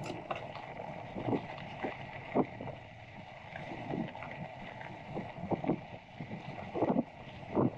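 Mountain bike rolling along a dirt desert trail: steady tyre noise with irregular knocks and rattles from the bike over the rough ground, and wind on the microphone.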